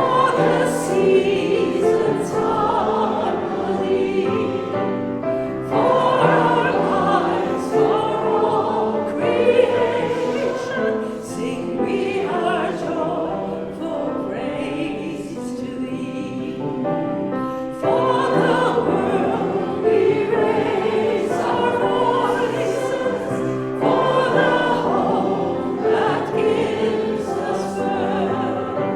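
Congregation singing a hymn together, in long sung phrases.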